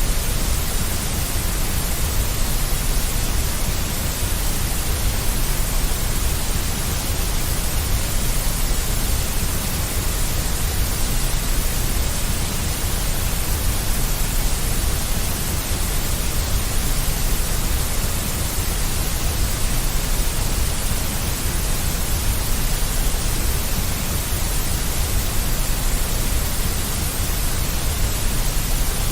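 Deep white noise: a steady, unchanging rush, heaviest in the bass, with a hiss on top.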